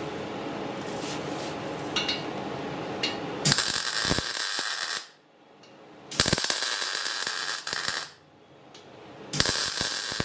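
MIG welding on steel: three runs of crackling, each one to two seconds long and cut off sharply, after a steady hum.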